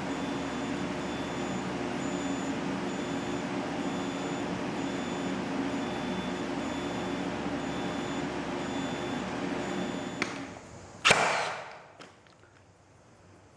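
Steady hum of a power inverter running, with a high whine that pulses on and off, cutting off abruptly about ten seconds in. About a second later comes a single loud thump.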